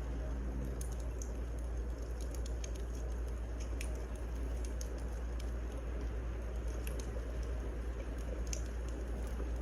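Wood fire crackling: a steady low rumble and hiss with scattered, irregular sharp pops and snaps.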